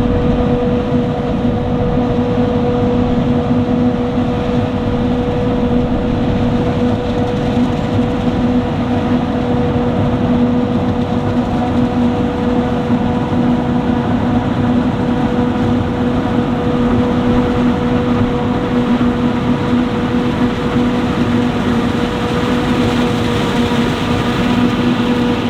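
Claas Jaguar 850 self-propelled forage harvester chopping maize, a loud, steady drone with a constant hum that holds the same pitch throughout.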